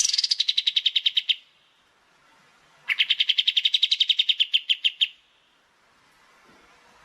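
A small songbird singing two fast, even trills of many short high notes. The first lasts about a second and a half; the second starts about three seconds in and lasts about two seconds.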